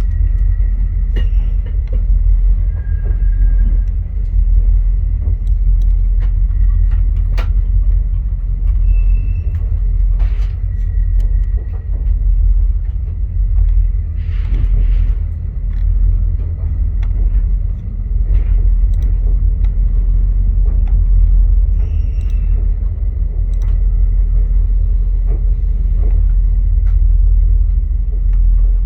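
Via Rail passenger train rolling along the track with a steady low rumble. Scattered clicks and knocks run through it, along with a few brief high-pitched squeals and a short hissing burst about halfway.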